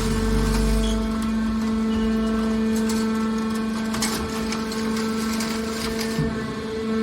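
Hydraulic metal baler running: a steady hum from its hydraulic power unit, with a low rumble that fades out in the first second or two and some brief crackling about three to four seconds in.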